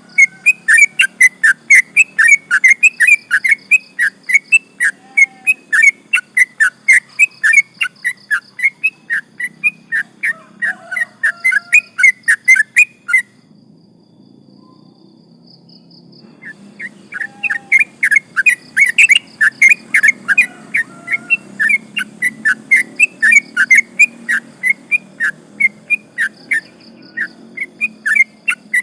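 Yellow-vented bulbul (trucukan) singing a long, fast run of short, sharp chirping notes, about four a second. It breaks off for about three seconds midway, then starts again.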